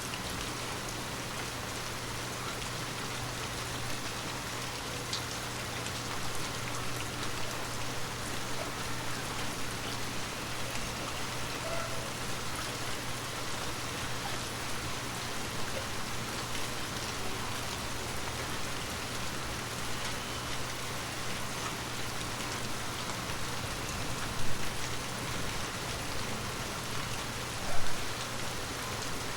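Heavy rain falling steadily, an even hiss of drops on surfaces, with a low steady hum underneath. Two brief louder sounds stand out near the end.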